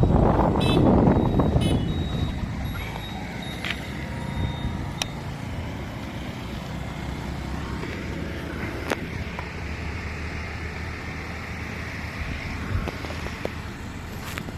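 Road traffic noise, loudest over the first two seconds and then a steady low rumble with a few faint clicks.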